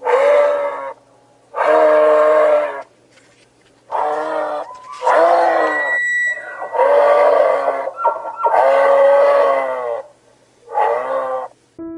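An animal calling over and over: about seven drawn-out, wavering calls, each around a second long, with short pauses between them.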